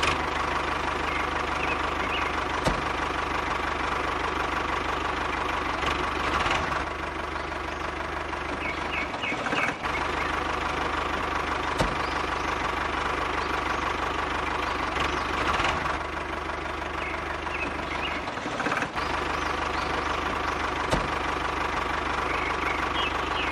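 A small motor running steadily with a constant hum, briefly cut off twice.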